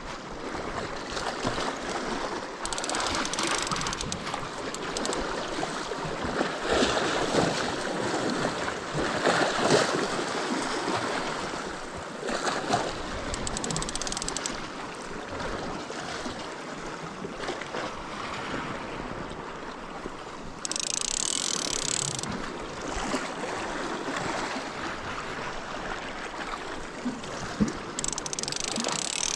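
Sea water washing and gurgling among shoreline rocks, swelling and easing as the waves come in. There are two short hissing surges, about two-thirds of the way through and again at the end.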